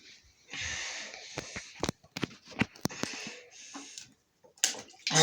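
A person breathing hard in hissing breaths, with sharp mouth clicks between them.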